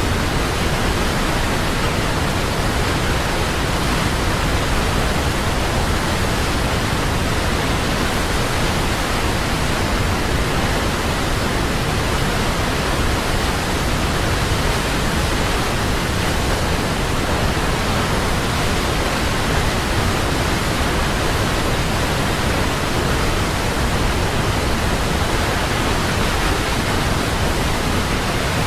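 Large waterfall: water falling and crashing in a steady, unbroken rush.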